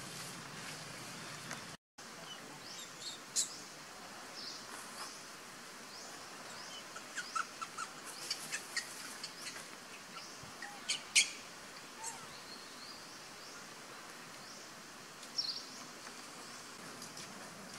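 Outdoor ambience with a steady background hiss and scattered short, high bird chirps and calls, a quick run of them in the middle and one louder sharp call shortly after.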